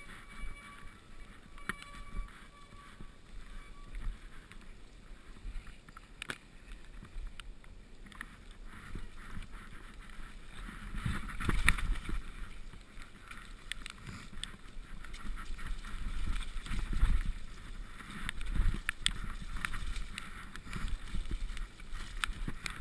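Mountain bike ridden over a wet, muddy trail, heard through an action camera's microphone: a rumble of wind and tyres on the ground with scattered rattles and knocks from the bike, louder in the second half.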